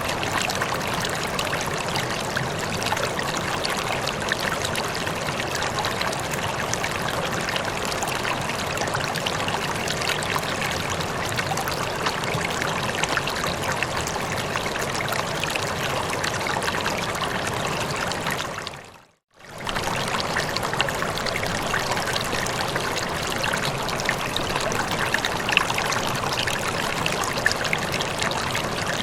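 Running water, a steady even rush like a flowing stream. About two-thirds of the way through it fades briefly to silence and comes straight back at the same level.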